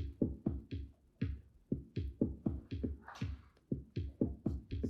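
Electronic drum-machine beat played live: deep kick-drum hits about four a second, each dropping in pitch, with one brighter, hissy hit about three seconds in.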